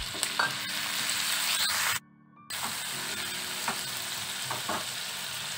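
Chopped tomatoes sizzling in hot oil in a frying pan with fried onions and ginger-garlic paste, stirred with a spoon that gives a few light taps. The sizzle cuts out for about half a second a couple of seconds in, then carries on steadily.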